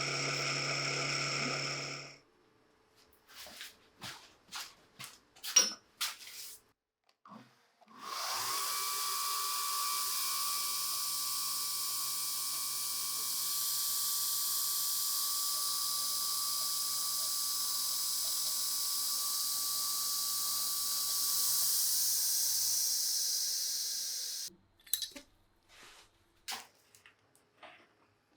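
Small electric power tool, drill-like, spinning up about eight seconds in and running at a steady whine with a high hiss for about sixteen seconds before stopping. Short clicks and taps of tools and parts being handled come before and after it.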